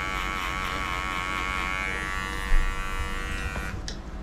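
Electric dog grooming clippers running with a steady hum that wavers slightly in pitch, then switched off near the end. A single thump comes about two and a half seconds in.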